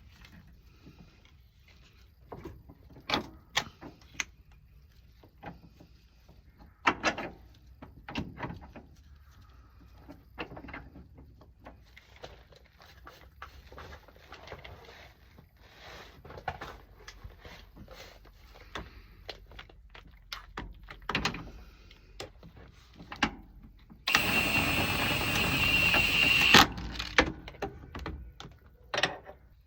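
Scattered metal clinks and knocks of hand tools and loosened suspension bolts and arms being worked on. Near the end, a loud steady whirring noise lasts about two and a half seconds, starting and stopping abruptly.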